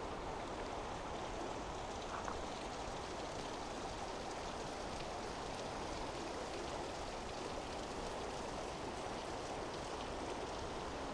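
Oirase Stream, a mountain stream, flowing over rocks: a steady, even rush of water.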